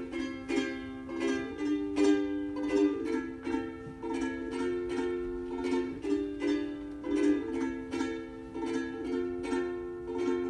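Ukulele strumming chords in a steady, even rhythm.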